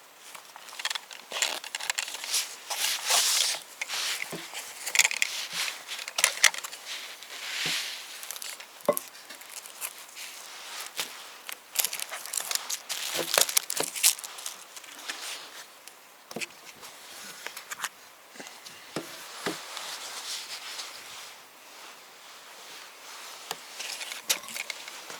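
Irregular handling noises: rustling and crinkling with scattered sharp knocks and snaps, like wood or twigs being handled. They come in clusters, busiest in the first half and again around halfway through.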